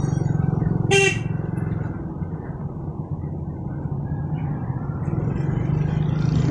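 Motorcycle engine running steadily while riding on the road, with a short vehicle horn toot about a second in.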